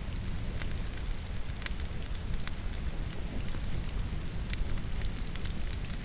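Wood logs burning in a fireplace, crackling with frequent sharp irregular pops over a steady low rumble, mixed with rainfall.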